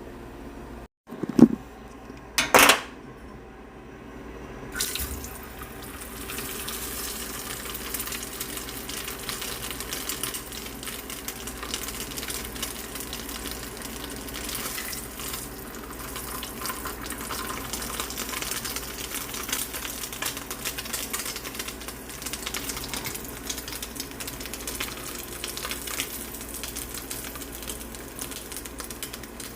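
Water running from a tap into a sink, a steady rush that starts about five seconds in. Near the start come two sharp knocks, the loudest sounds here.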